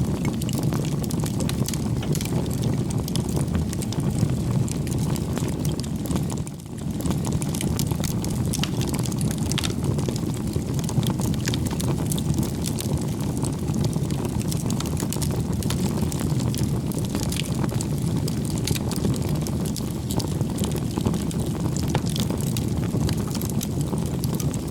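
Fire crackling: a steady low rumble with many small sharp pops and crackles. The sound dips briefly about six and a half seconds in.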